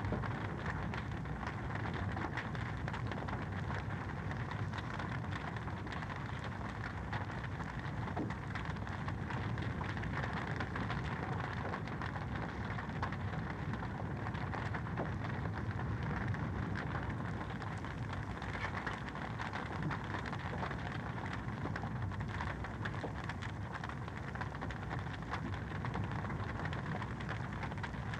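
Wood fire in a fireplace burning steadily, with a dense stream of small crackles and pops over a continuous hiss.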